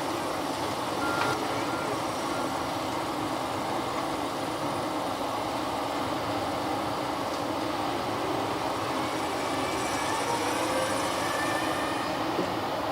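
Steady vehicle noise: a continuous rumble and hiss, with a few faint brief squeals.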